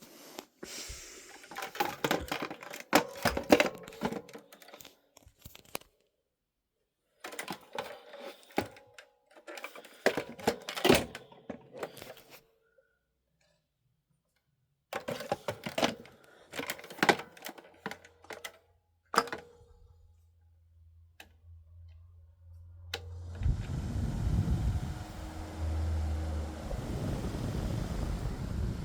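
O2Cool 10-inch box fan being handled, with clusters of plastic clicks and knocks, then switched on about two-thirds of the way in. Its motor hum rises into a steady rush of blown air with a low rumble.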